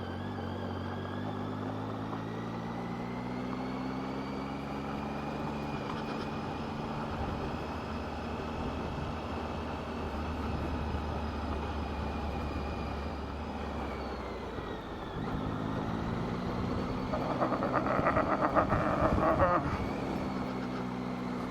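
Motorcycle engine under way, its pitch rising through the first few seconds and then holding steady. It drops off about two-thirds of the way through and picks up again. Near the end a loud rattling burst of about three seconds rises over the engine.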